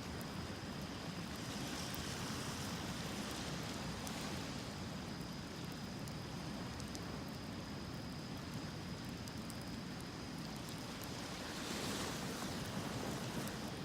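Surf washing on the shore in a steady rush that swells twice, about two seconds in and near the end, with the faint crackle of a beach bonfire.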